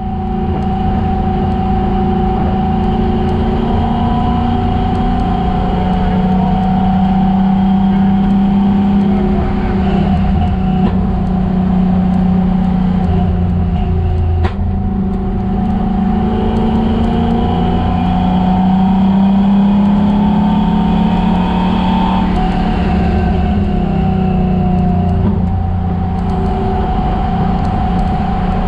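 Chevrolet Chevelle's engine running hard on a race track, its pitch climbing as it accelerates and dropping back several times as the driver lifts off and changes speed. There is one sharp click about halfway through.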